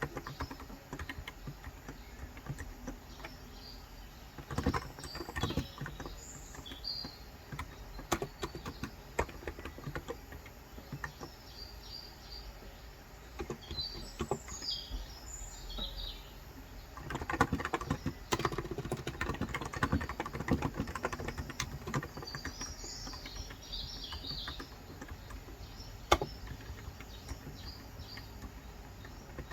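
Typing on a Cox Endeavor 35 g electrostatic-capacitive (non-contact) tenkeyless keyboard: scattered keystrokes with denser bursts about five seconds in and again from about seventeen to twenty-one seconds. Small birds chirp in the background, in short spells of a few calls.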